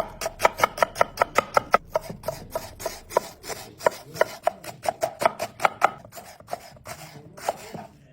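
A knife chopping food on a cutting board in quick, even strokes of about five or six a second. The strokes grow sparser and weaker over the last couple of seconds.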